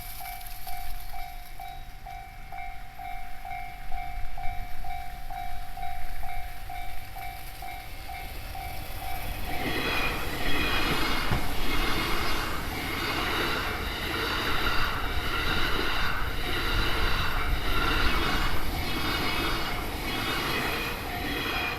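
A railway level-crossing warning bell rings in a steady pulse. About ten seconds in, the E001 Train Suite Shiki-shima passes close by, its wheels clattering rhythmically over the rail joints and drowning out the bell.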